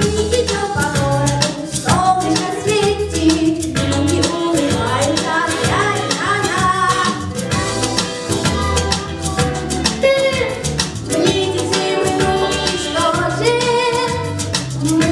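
A song: a voice singing over an upbeat backing track with a steady beat and percussion.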